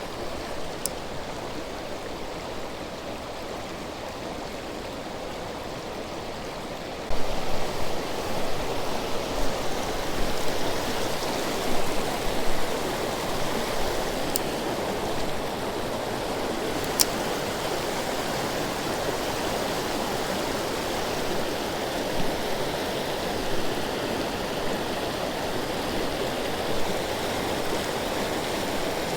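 Creek water rushing steadily over shallows; the rushing gets louder about seven seconds in. A few faint sharp ticks are heard now and then.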